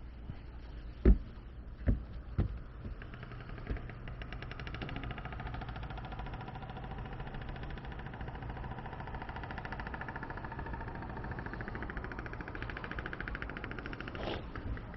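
A few sharp knocks, the first the loudest, then a steady machine sound with a fast, fine pulse.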